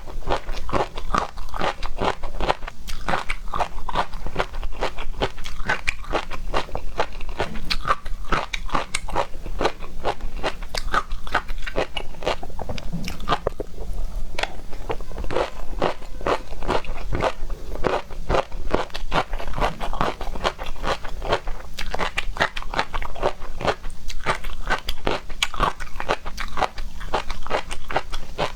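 Close-miked mukbang eating of seafood: continuous rapid crunching and chewing with dense, irregular clicks.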